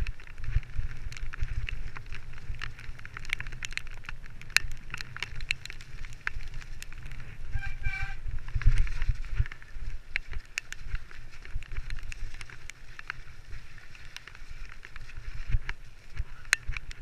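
Mountain bike descending a rough wooded trail: constant rattling and clicking of the bike over the ground, with wind rumble on the microphone. A brief high squeal about halfway through.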